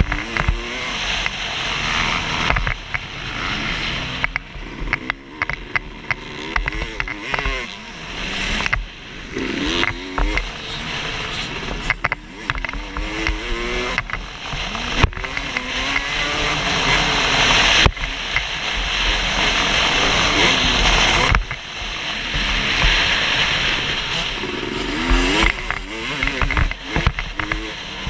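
Two-stroke Suzuki RM250 motocross bike ridden around a dirt track, its engine revving up and down over and over as the rider works the throttle through turns and jumps.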